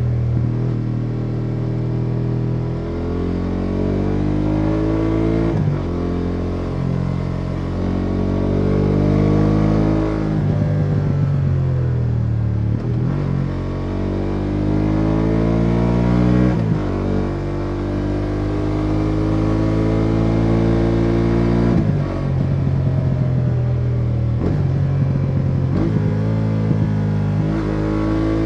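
BMW F850 GS Adventure's 853 cc parallel-twin engine pulling the bike along under throttle, heard from the rider's seat with road and wind noise. The engine note climbs steadily, then dips sharply about five times before rising again.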